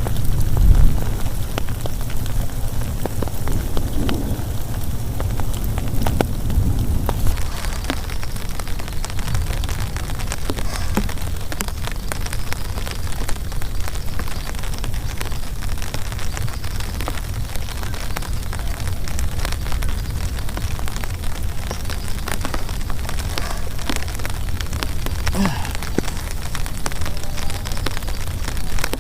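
Heavy rain falling, with many separate drops striking close by over a steady low rumble. The rain grows denser about seven seconds in.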